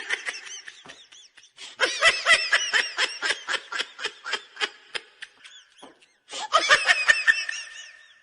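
Laughter sound effect: rapid, high-pitched laughing in three bouts, the second starting about two seconds in and the third about six seconds in.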